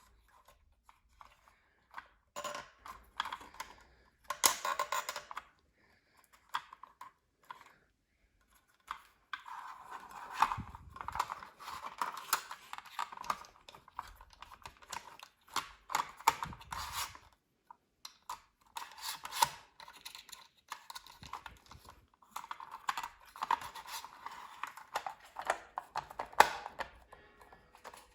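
Irregular clicking, tapping and light rattling of small hand tools and metal parts, in dense clusters with short pauses, as a Bernina 1230 sewing machine is worked on.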